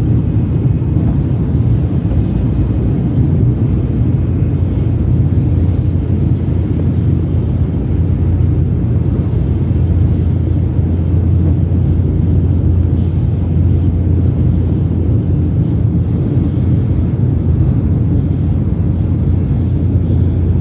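Shinkansen bullet train running: a steady low rumble that holds unchanged throughout.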